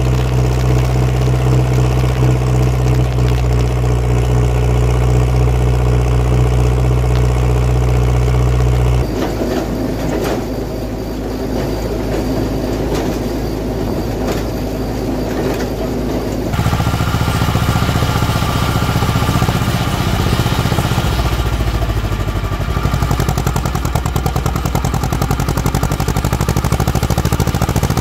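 Farm machinery engines running in three abrupt segments. A steady idle with a strong low hum lasts about nine seconds. It gives way to a somewhat quieter engine sound with a busier, rougher texture, and about halfway through another engine takes over, running steadily.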